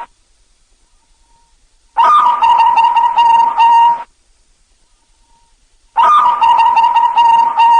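Zebra dove (perkutut) cooing in bouts of about two seconds, each a quick run of short notes on one steady pitch, with two-second silences between bouts.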